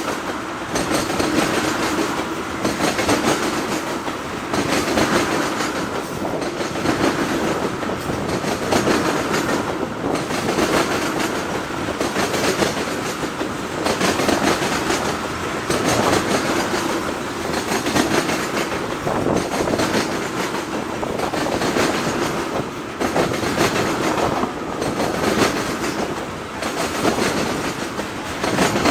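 Freight train of loaded tank cars rolling past at speed, steel wheels clacking over the rail joints. A louder clatter comes back about every couple of seconds as each car's wheel sets pass.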